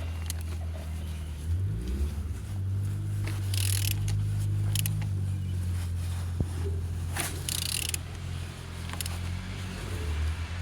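Engine being turned over slowly by hand, with a short hiss of air about every three to four seconds as it comes up on compression; a steady low hum of machinery runs underneath.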